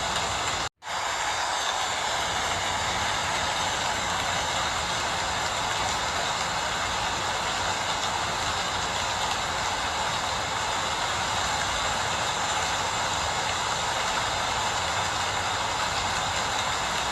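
Steady rain falling, an even hiss with a low rumble beneath. The sound drops out for a split second less than a second in.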